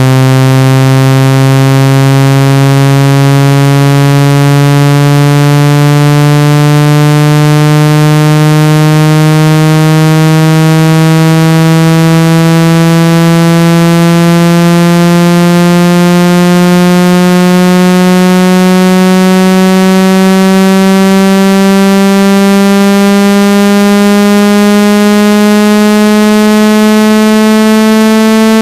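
Synthesized water-ejection tone for clearing water from a phone speaker: a loud, buzzy low tone rising slowly and steadily in pitch, meant to vibrate trapped water out of the speaker or earpiece.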